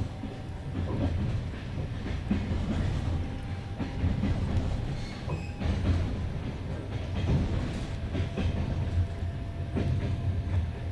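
Passenger train running along the track, heard from aboard a carriage: a steady low rumble of wheels on rail with irregular clicks over rail joints.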